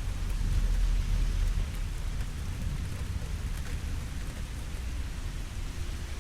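Steady rain falling, an even hiss, over a deep low rumble that swells about half a second to a second and a half in and then eases.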